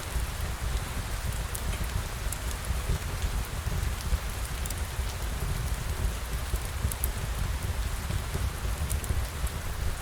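Steady rain, with scattered sharp drop ticks over a low rumble.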